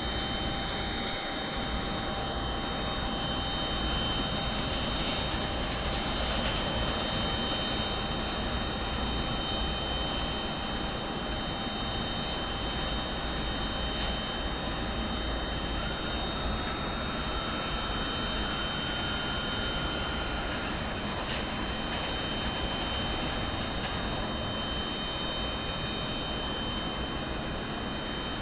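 Jet aircraft on the airport apron running at idle: a steady rushing noise with constant high-pitched whines. A faint extra tone comes in for a few seconds around the middle.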